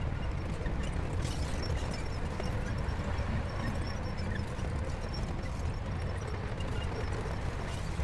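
Heavy diesel earthmoving machinery running steadily with a low engine drone and a few faint clicks.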